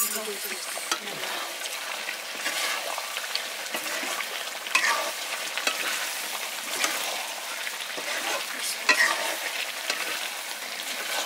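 Chicken pieces in gravy sizzling and frying in a two-handled wok, stirred with a wooden spatula that scrapes the pan every so often.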